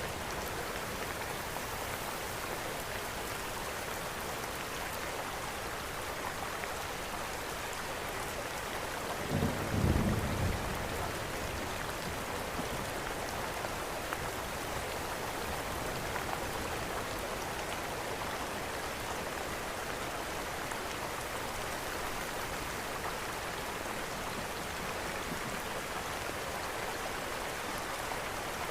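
Steady rain falling, mixed with a crackling wood fire in a fireplace. About ten seconds in, a brief low rumble rises and fades.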